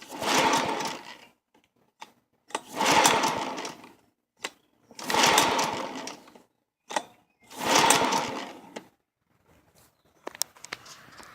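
Recoil pull-starter on a John Deere 14SE push mower's Kawasaki 4.5 hp OHV engine pulled four times, about two and a half seconds apart, each pull a short whirring rush that fades. The engine cranks but does not catch.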